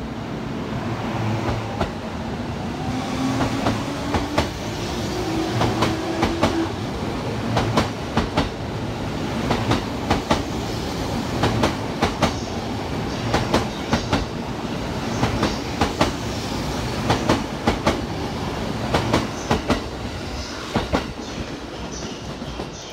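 A JR E231 series electric commuter train pulls out and accelerates past. Its motor whine rises in pitch over the first several seconds, then its wheels click over the rail joints in repeated clusters as each car goes by, thinning out near the end as the train draws away.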